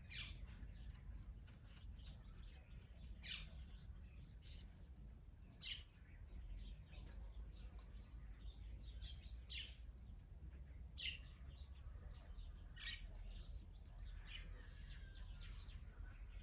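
Wild birds chirping: short, sharp, high calls about every second or two, some in quick clusters, over a faint low steady rumble.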